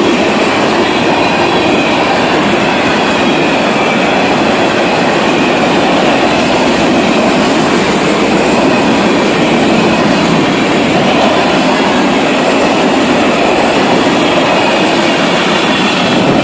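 Freight train cars rolling past close by: loud, steady clatter of steel wheels on the rails.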